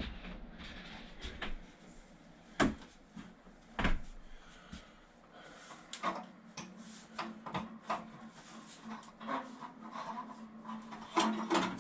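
Knocks, clicks and rubbing as the vent stack is worked loose from the top of a water heater, with two sharp knocks about two and a half and four seconds in. A low steady hum comes in near the end.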